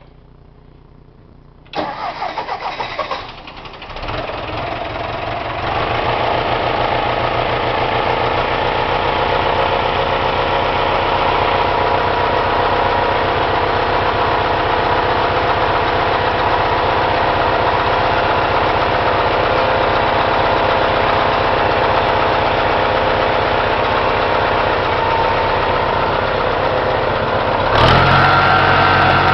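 Ford 172 four-cylinder diesel engine cold-starting: the starter cranks it for about a second and a half, it catches about four seconds in and settles to a steady idle. Near the end it steps up to a higher, steady speed.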